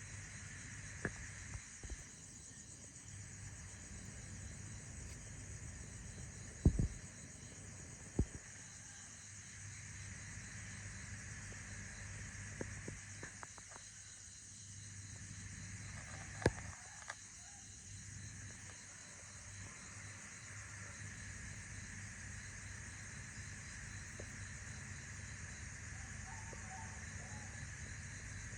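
A steady outdoor insect chorus: high, continuous chirring with a low hum underneath. Now and then there is a sharp click or tap, the loudest about a quarter of the way in and again just past halfway.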